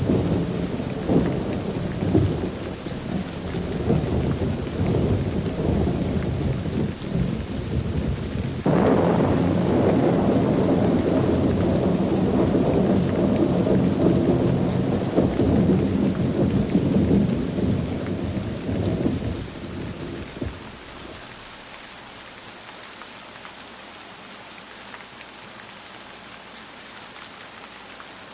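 Rolling thunder over steady rain: a fresh thunderclap about a third of the way in rumbles on and dies away about three quarters of the way through, leaving only the even hiss of falling rain.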